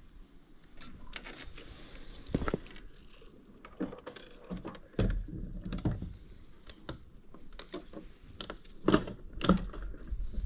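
Irregular knocks, clicks and clatter of parts being handled and fitted on a vehicle fuel pickup assembly, with a few louder knocks in the second half.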